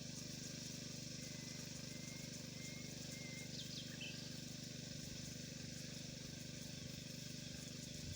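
Faint outdoor ambience: a steady low hum under a steady hiss, with a few short, faint high chirps in the first half.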